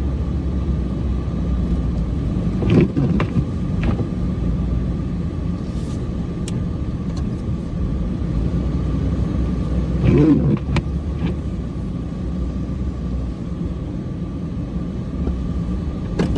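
Cummins diesel truck engine running steadily, its sound heavy in the low end, with a faint steady whine above it and a few brief louder sounds about three and ten seconds in.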